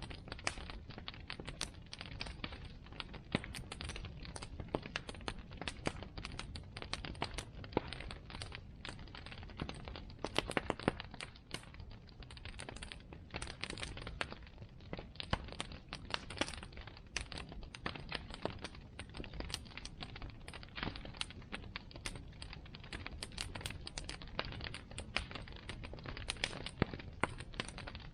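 Wood bonfire crackling: a constant, irregular patter of small pops and snaps over a soft steady hiss, with a few louder cracks here and there.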